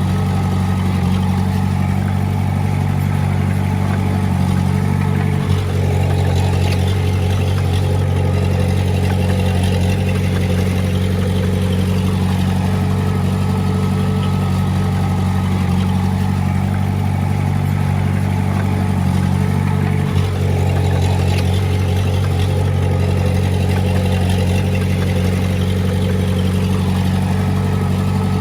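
Diesel engine of a small bulldozer running steadily at working speed. Its level briefly dips twice, about five and twenty seconds in.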